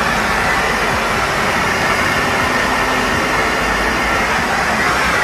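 Steady rushing noise of an airliner in flight, heard inside a Boeing 757-200 lavatory: even and unbroken, with no distinct flush whoosh rising above it.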